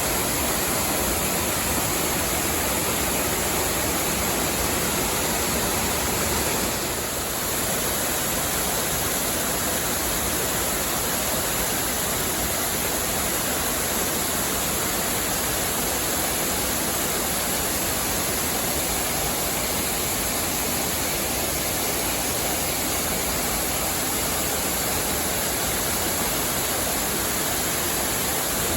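Waterfall: the steady rush of falling water, an even hiss across all pitches with no separate events.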